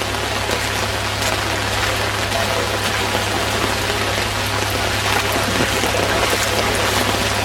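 Heavy rain and running floodwater, a steady rushing hiss.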